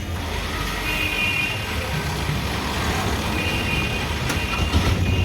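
Road traffic: vehicle engines running in a steady low rumble, with two short high tones, about a second in and again about three and a half seconds in.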